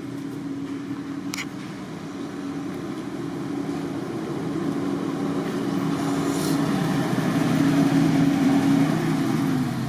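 A motor vehicle engine running, a steady hum that grows louder over several seconds and eases off near the end, as if it draws near. A single sharp click about a second and a half in.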